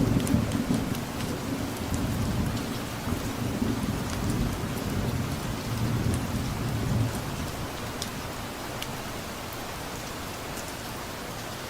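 Steady rain falling, with scattered drops ticking, under a low rumble of distant thunder that fades away about seven seconds in.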